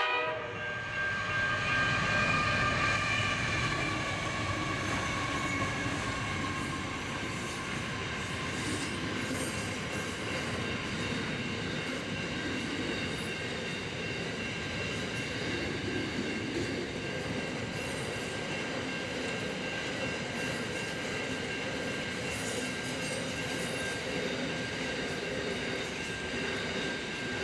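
A train rolling through a two-track level crossing: a long, steady rumble of wheels on the rails that keeps going throughout. In the first few seconds the tail of a horn fades away, sliding slightly down in pitch.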